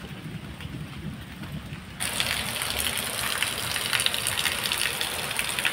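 Heavy rain falling, a dense steady hiss that starts abruptly about two seconds in; before it there is only a quieter low rumble.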